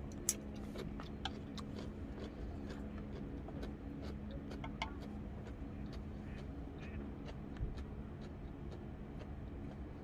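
Campfire wood crackling, with sparse, irregular sharp pops over a steady low hum.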